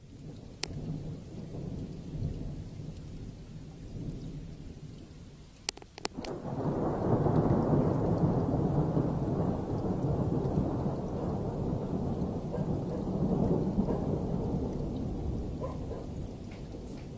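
Thunder rolling during a rainstorm: a low rumble that swells into a long, louder roll about six seconds in, preceded by a few sharp cracks, with steady rain underneath.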